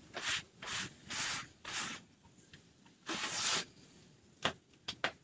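Repeated hand-rubbing strokes across a surface, about five short scrubbing passes with pauses between them, followed by two or three sharp clicks near the end.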